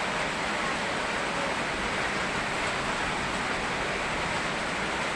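Steady rain mixed with a rushing river, an even wash of water noise that does not change.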